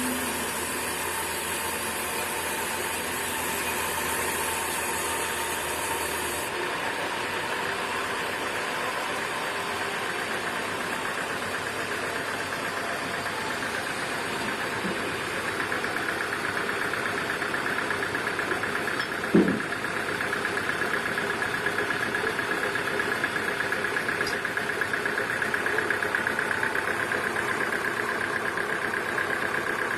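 Sawmill machinery running steadily with an engine-like drone and a rhythmic rattle that grows stronger about halfway through, broken by one short, loud sound about two-thirds of the way in.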